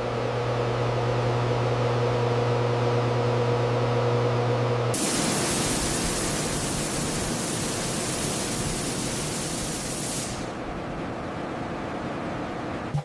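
A steady machine hum with a low drone for about five seconds, then an abrupt switch to a loud, even hiss like rushing air that eases off about ten seconds in.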